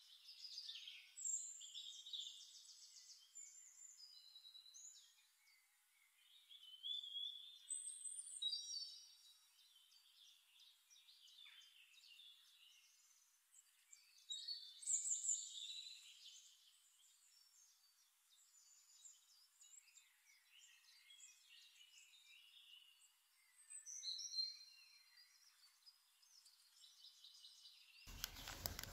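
Faint birdsong: short chirping and warbling phrases come every few seconds over near silence. Near the end, a much louder crackling, crinkling rustle begins.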